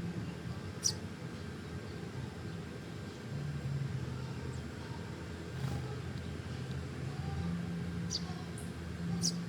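Three short, high bird chirps, one about a second in and two near the end, over a steady low hum.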